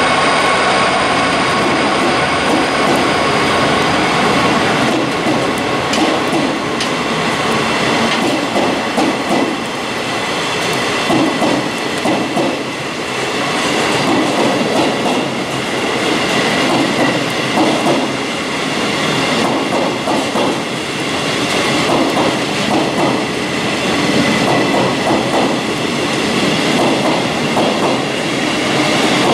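Freight train of empty flat wagons rolling past on the near track: continuous wheel-on-rail rumble with scattered sharp clicks and clatter over rail joints, and high steady ringing tones from the wheels.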